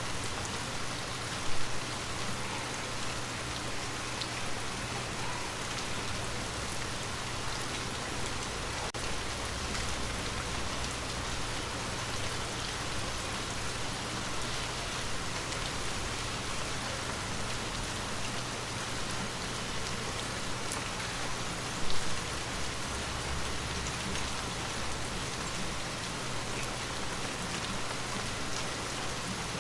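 Steady rain pattering on a window pane. Two brief, louder single hits stand out, one near the start and one about two-thirds of the way through.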